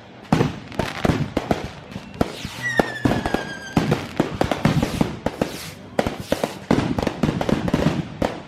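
Fireworks display: a rapid, irregular series of bangs and crackling pops from bursting shells, with a whistling firework about three seconds in, its pitch falling slightly.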